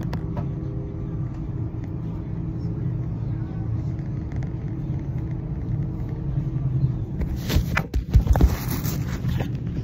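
Passenger train running, a steady low rumble with a faint hum heard from inside the carriage. About eight seconds in comes a brief cluster of loud knocks and rustling.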